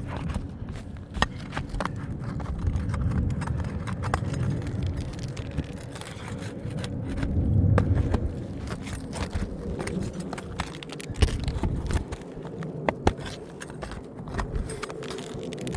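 Asphalt ridge cap shingles being pried loose on a roof: scraping and scattered sharp clicks as the shingles and their nails are worked free, over a low, uneven rumble.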